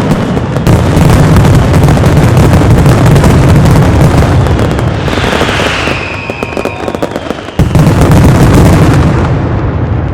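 Aerial firework castillo in its finale: a dense barrage of bangs running together into a continuous rumble, with a falling whistle about halfway. It thins briefly, then a sudden big boom about three quarters in renews the barrage before it starts to fade near the end.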